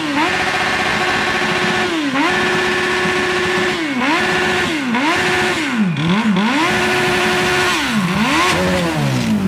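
Motorcycle engine revved flat out and held at a steady high pitch, the throttle repeatedly dropped and snapped back open so the revs dip and climb again. Near the end the revs fall steadily away as the engine is run to destruction and throws a connecting rod.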